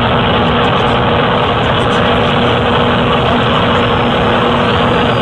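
Cessna light aircraft's piston engine and propeller running steadily: a loud, even drone with a faint steady hum through it.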